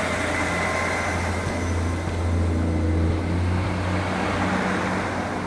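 Train running: a steady low hum under a rumble that swells about halfway through and eases off toward the end.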